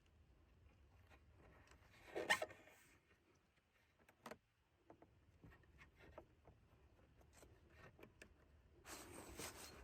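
Near silence broken by faint handling noises: a short scrape or rustle about two seconds in, a few scattered clicks, and rustling again near the end.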